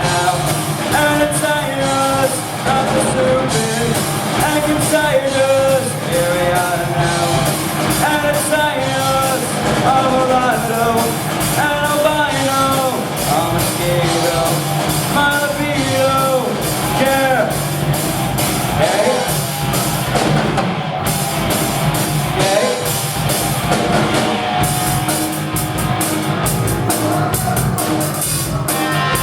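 Live rock band playing a song: a male lead vocal over drum kit, electric guitars and bass.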